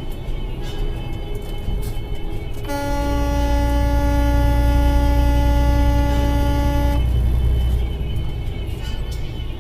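A vehicle horn held in one long blast of about four seconds on a single steady tone, starting about three seconds in, over a low engine rumble.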